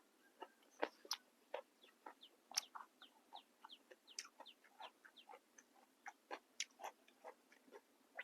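Chewing and crunching crisp, fresh raw vegetables: a quick, irregular run of short, soft crunches.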